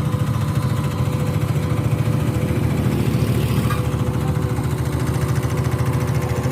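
Asphalt compactor's engine running steadily with a dense low rumble and rapid even pulsing.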